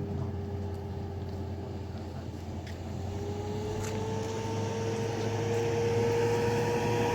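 A vehicle engine running with a steady hum and a whine that rises in pitch about three seconds in, then holds as it gets louder.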